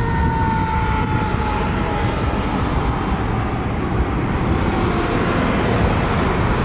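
Fire truck siren winding down in a slow falling tone that fades out over the first few seconds, over the steady low rumble of the Seagrave Marauder tractor-drawn aerial ladder truck's engine.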